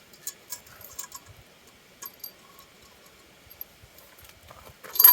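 Light metallic clicks and clinks of steel game-hoist parts being handled and fitted together, then a sharp, loud metal clank with a short ringing near the end.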